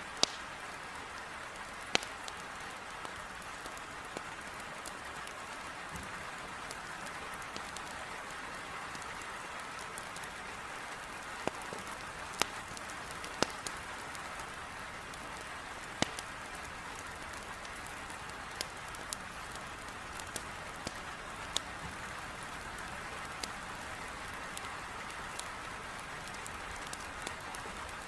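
Heavy rain falling steadily against a window, with a wood fire in a fireplace crackling over it in scattered sharp pops every second or few.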